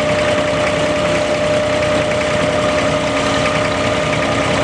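Diesel engine of a Dubai Creek abra water taxi running steadily, with a constant hum and a steady whine.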